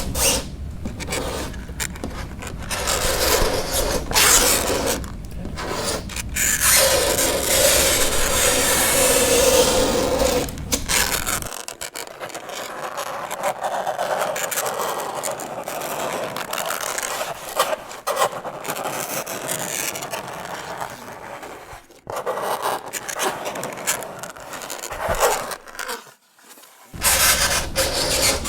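Fingernails scraping across a chalkboard in long grating strokes, broken by short pauses and one longer gap near the end.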